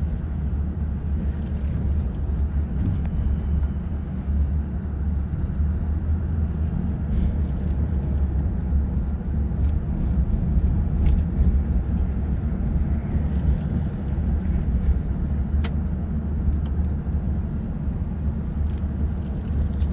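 A car being driven: a steady low rumble of engine and road noise, with scattered faint clicks.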